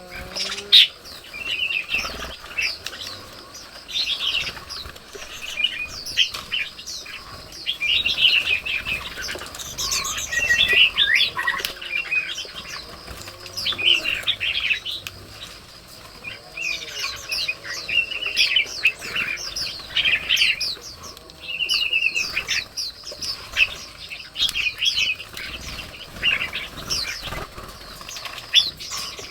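Red-whiskered bulbuls chirping and calling, short quick phrases following one another with hardly a break.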